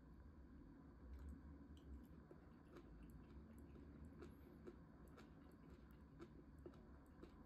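Faint chewing with scattered small clicks, like a person eating close to the microphone.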